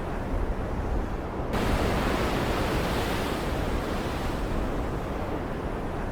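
Storm-at-sea ambience: a steady rush of ocean waves and rain over a deep low rumble. About a second and a half in, a brighter hiss cuts in suddenly, then slowly fades.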